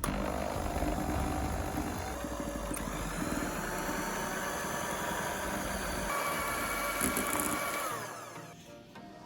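Small electric kitchen appliance motor running at speed, starting abruptly and holding steady for about eight seconds before winding down.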